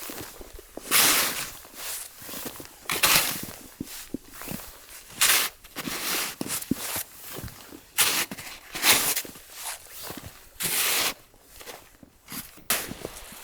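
Slow footsteps crunching in snow, one step every second or two.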